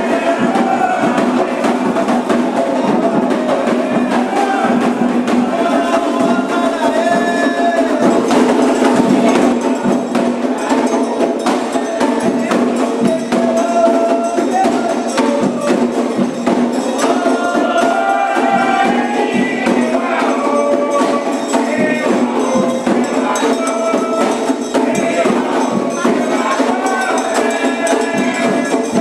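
Candomblé ritual music: steady, fast percussion with voices singing a melodic chant over it.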